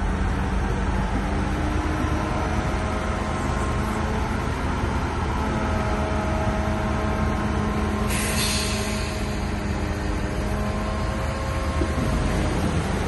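Heavy diesel construction machine running steadily under load, its engine note shifting slightly. A short hiss about eight seconds in, lasting about a second.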